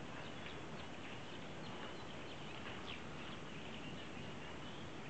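Birds giving many short, high chips and brief twitters in quick succession, over a steady background hiss.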